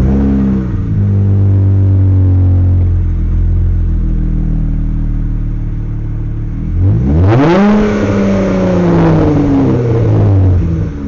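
2020 Dodge Charger with a muffler delete starting up cold: the engine catches with a loud flare and settles into a steady fast idle, then is revved once about seven seconds in, the note rising quickly and sinking slowly back to idle.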